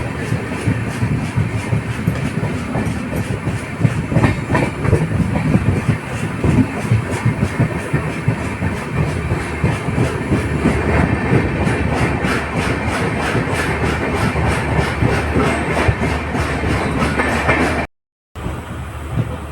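LHB passenger train running at speed, a steady rumble with the rhythmic clickety-clack of wheels over rail joints. The sound drops out completely for a moment near the end, then resumes quieter.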